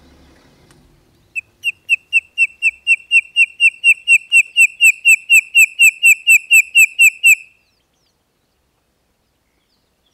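A bird calling: a run of about two dozen short, downslurred whistled notes, about four a second, growing louder over the first couple of seconds and then holding steady until they stop.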